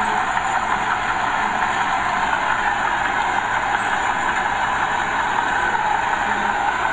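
Diesel engine of earthmoving machinery, a small bulldozer or dump truck, running steadily with no break.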